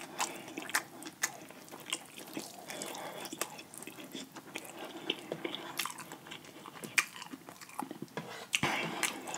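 Close-miked chewing of fried chicken, with meat being pulled off the leg bone by hand and scattered sharp clicks and crackles throughout.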